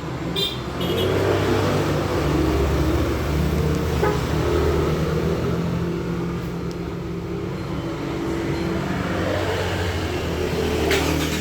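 GAC GS3 Emzoom's engine, started by remote, running at a steady idle, louder from about a second in. A few short high beeps sound at the very start.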